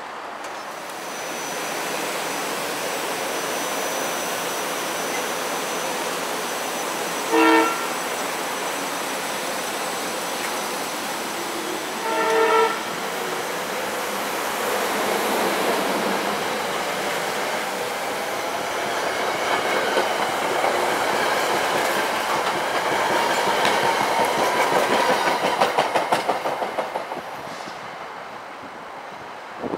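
SEPTA Silverliner IV electric commuter train departing. The Leslie RS3M horn on lead car 455 sounds two short blasts for the grade crossing, about seven and twelve seconds in. The train then pulls away with its wheels clacking quickly over rail joints, fading near the end.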